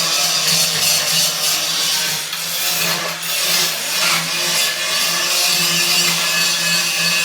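A power tool working wood: a steady motor hum under a continuous rasping noise.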